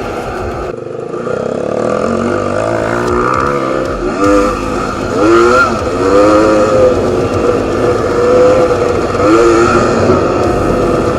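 Enduro motorcycle engine revving up and down as it rides off-road, its pitch rising and falling again and again.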